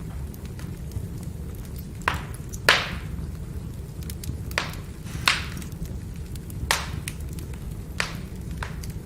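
Firewood burning with a steady low rumble of flame and sharp pops and crackles every second or so, the loudest a little under three seconds in.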